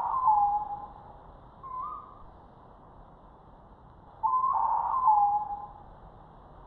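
A person imitating an owl's hoot: two pitched hooting calls about four seconds apart. Each call drops from a higher note to a lower, longer one and is followed by a short rising note.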